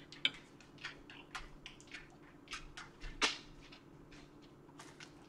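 Wet chewing and mouth clicks of someone eating rotini pasta in Alfredo sauce: irregular soft smacks a few times a second, with one louder click about three seconds in.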